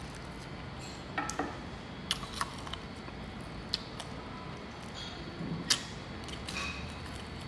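Chewing and crunching on crispy fried pork knuckle skin: scattered sharp crackles, several seconds apart, over a steady background hum.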